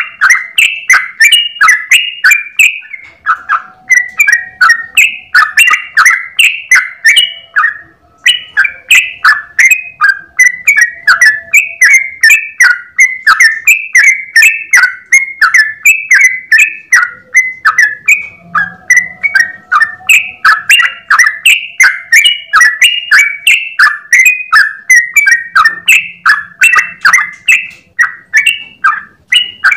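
Yellow-vented bulbul (trucukan) singing a long, unbroken run of rapid bubbling notes, about three a second, with a brief pause about a quarter of the way through: the fast continuous 'ropel' song used as a tutor recording for other trucukan.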